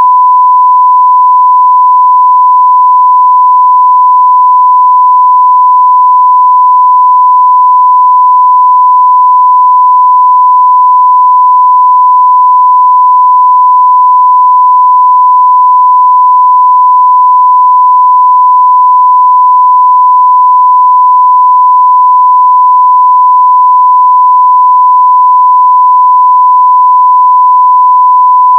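A 1 kHz sine-wave test tone at full level (0 dB), one steady pure pitch held without a break.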